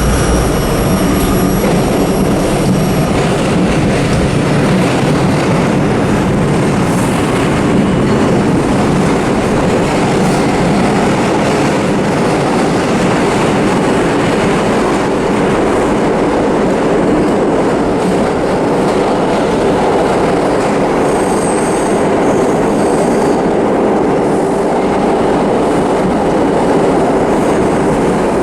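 Vintage subway train running on the rails: steady, loud wheel-and-track noise with some clickety-clack. A thin, high wheel squeal fades out in the first few seconds.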